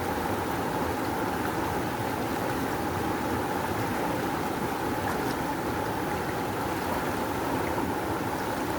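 Fast river water rushing steadily, a dense even roar of flowing current.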